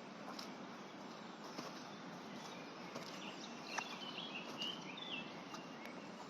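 A songbird warbling a short, twittering phrase about halfway through, over the steady rush of a fast-running river, with a few sharp ticks scattered through.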